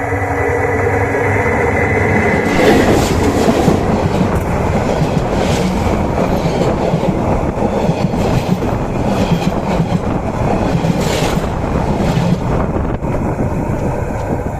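Train passing directly overhead on the track: loud rumble and rattle of wheels and carriages, with irregular clacks. A steady whine sits over the rumble for the first two and a half seconds, then the clattering takes over.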